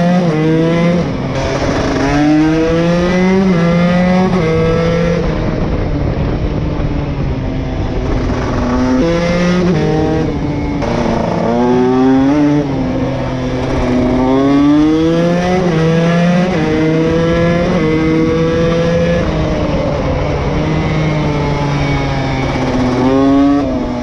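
KTM SX 150 two-stroke dirt bike engine revving hard, its pitch climbing again and again and then dropping back as it accelerates and shifts between corners.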